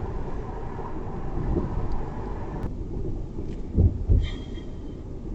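Car road noise heard from inside the cabin while driving: a steady low rumble, with two quick low thumps about four seconds in.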